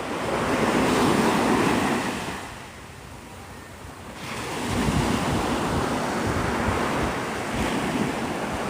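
Surf washing onto a sandy beach, with wind buffeting the phone's microphone. The wash swells about a second in and eases for a second or two near the middle, then comes back steadier, with wind rumble.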